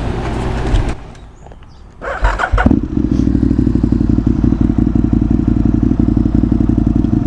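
Aprilia Tuono 1000R's V-twin engine starting about two and a half seconds in, then running at a steady idle.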